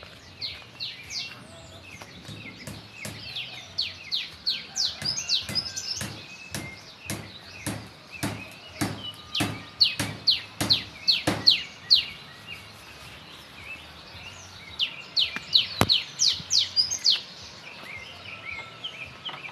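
Small birds chirping in rapid runs of short, sharp notes, coming in several bursts with short gaps between them. There is one sharp click about two-thirds of the way through.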